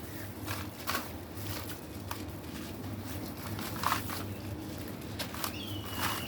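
Black stone crumbling with irregular crackles and small snaps, over a steady low hum. A thin, steady high whistle starts near the end.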